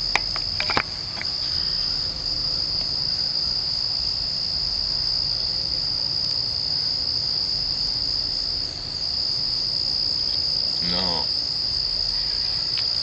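Chorus of night insects: one steady, high-pitched continuous trill that doesn't let up, with a few sharp clicks right at the start.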